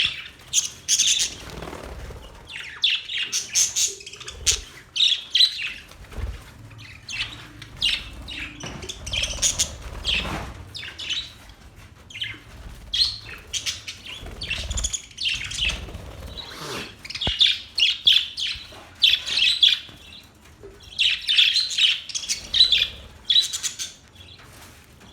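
Budgerigars chirping and warbling in quick, irregular bursts of high chatter, with short pauses.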